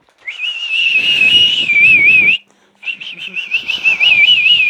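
Two long warbling whistles, each holding a high pitch that wavers quickly up and down, with a short break a little past halfway.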